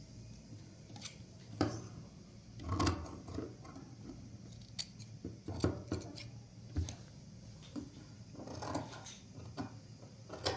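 Scissors snipping cloth in short, irregular strokes, with sharp clicks between them.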